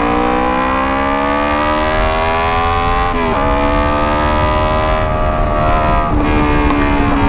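Kawasaki Ninja 250 parallel-twin engine running through a Racefit Alpha full-system aftermarket exhaust, accelerating hard with its pitch climbing steadily. The pitch drops sharply at an upshift about three seconds in, climbs again, and drops once more near six seconds at the next shift.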